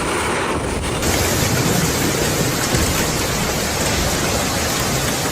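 Heavy storm rain pouring with wind, a loud steady hiss that turns brighter about a second in.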